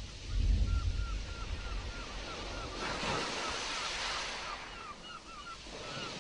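Stormy sea: waves surging and washing in against the wind, with a deep low rumble about the first second and a larger wave breaking about three seconds in. A quick series of short high chirps runs over it, several a second.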